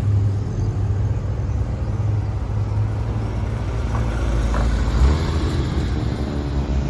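Porsche engine running steadily at low revs, a low even engine note with no revving.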